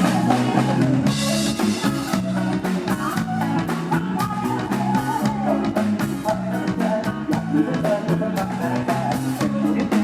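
Live band music: a drum kit keeps a fast, steady beat over bass and a melody line.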